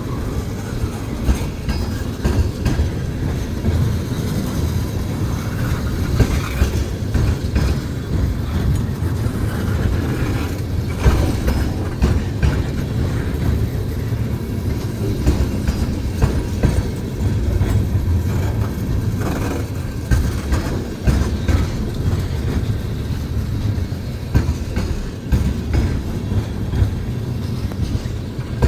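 Train rolling past, a steady low rumble of the cars with the clickety-clack of wheels striking rail joints.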